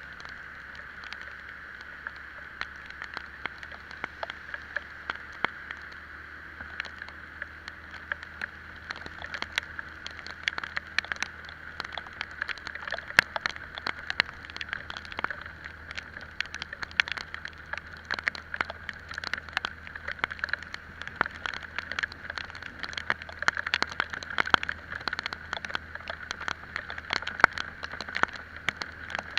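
An Italika Vitalia 125 scooter riding in the rain. A steady hiss of wind and road sits over a low engine hum, while raindrops tap sharply and irregularly close to the microphone, growing thicker after about nine seconds.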